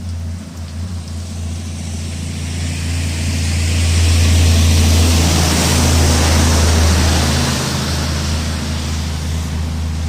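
Strong storm wind gusting, with a steady low rumble of wind buffeting the microphone. A gust swells to a peak about halfway through, then eases off toward the end.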